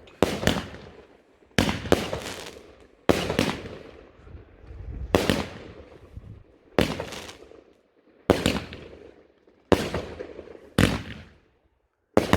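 Fireworks going off in a display: about nine sharp bangs, roughly one every one and a half seconds, each trailing off over about a second.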